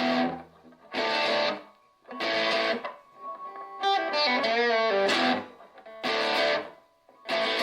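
Donner DST-1 Strat-style electric guitar played through a small 3-watt practice amp: short strummed chords about once a second, each cut off before the next, with a quick run of single notes about four seconds in.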